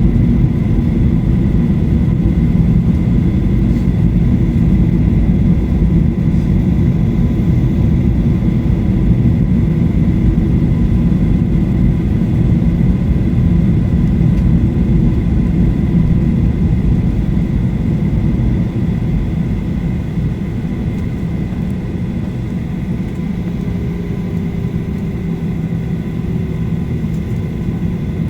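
Steady cabin noise inside a Boeing 737-800 with its engines running on the ground before takeoff: a dense low rumble with steady whining tones over it, easing slightly about two-thirds of the way through.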